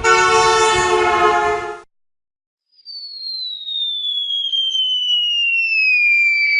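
A loud, steady horn-like blare lasting under two seconds, then after a short pause a long descending whistle, the cartoon falling-bomb whistle sound effect, sliding slowly down in pitch.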